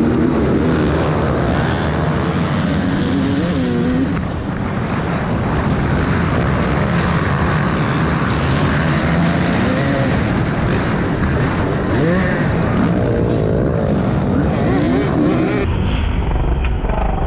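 Motorcycles running on the road with wind noise on the microphone, the engines rising and falling in pitch a few times as they rev. The sound changes abruptly twice, at cuts between clips.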